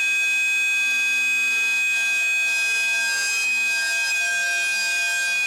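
A train horn blown in one long, steady blast that starts sharply and lasts about seven seconds, sounding a chord of high pitches. It is the departure whistle of the locomotive on the farewell run of a sleeper express.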